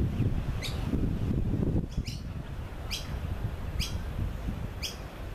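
A bird calling with a short, high chirp five times, about once a second, over a low wind rumble on the microphone.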